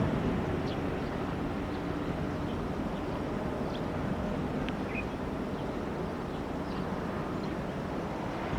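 Jet aircraft engine noise dying away into a steady distant rumble, with a few faint high chirps.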